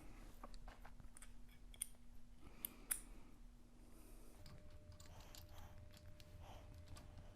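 Near silence with scattered faint clicks and taps, two sharper ones about two and three seconds in, from a motorcycle fork stem phone mount being handled and positioned.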